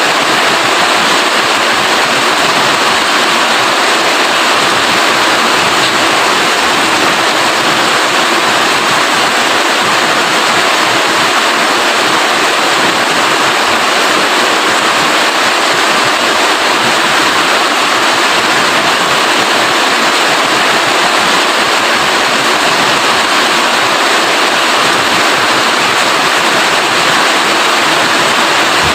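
Steady, heavy rain falling, a loud constant hiss with no distinct drops standing out.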